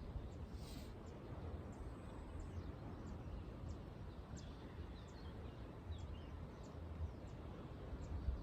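Outdoor ambience: low wind rumble on the microphone, with thin high chirps repeating about twice a second and a few short falling bird calls midway.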